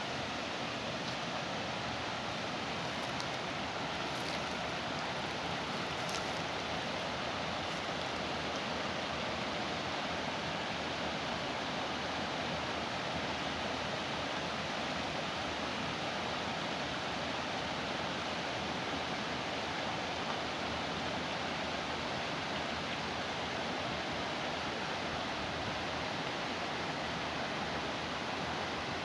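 Small waterfall on a water channel, the water rushing steadily.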